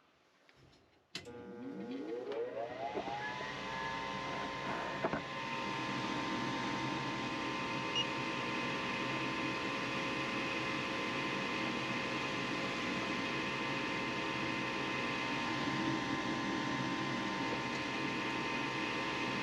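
Goodman gas furnace's draft inducer motor starting up about a second in, its whine rising in pitch for a couple of seconds and then settling into a steady whir, with a single click about five seconds in. This is the start of the furnace's ignition sequence after its flame sensor has been cleaned.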